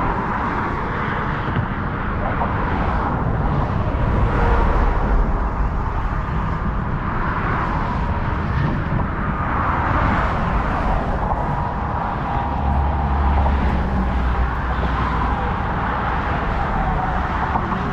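Steady noise of road traffic crossing a highway bridge, with low rumbles swelling a few seconds in and again past the middle.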